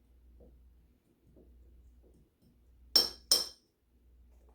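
Two sharp clinks on a small microwave-safe bowl, about a third of a second apart, about three seconds in, amid faint soft handling sounds as apple slices are layered in.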